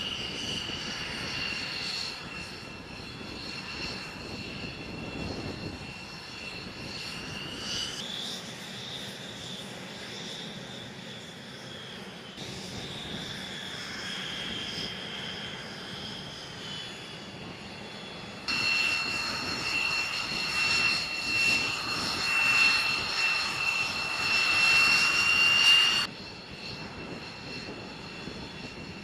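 Jet aircraft engine whining at a steady high pitch, with a rushing noise underneath; the sound jumps abruptly several times between shots, and is loudest for several seconds in the second half.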